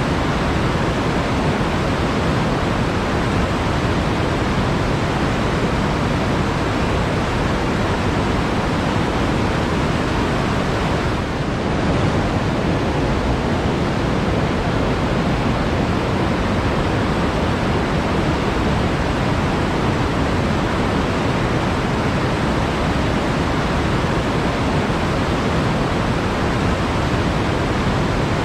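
Flowing water rushing steadily, with a brief dip about eleven seconds in.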